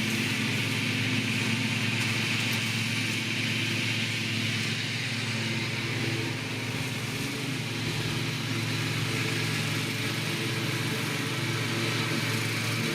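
Ride-on lawn mower engine running steadily after a battery recharge got it to start.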